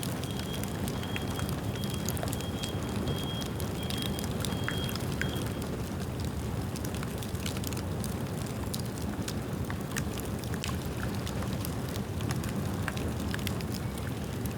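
Bamboo bonfire burning with a steady low rumble and frequent irregular sharp crackles and pops.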